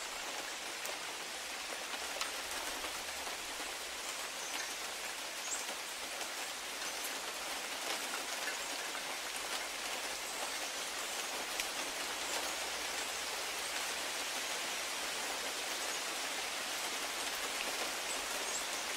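Steady rain falling on a conifer and a grass lawn: an even hiss with scattered sharp ticks of single drops.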